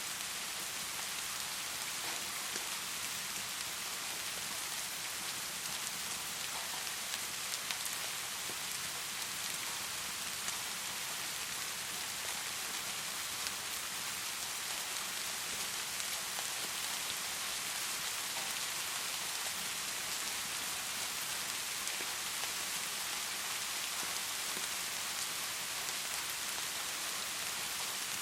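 Heavy rain pouring steadily, an even hiss with the odd faint tick of a single drop.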